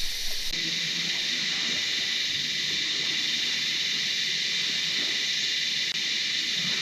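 Steady, shrill, high-pitched insect chorus droning without a break.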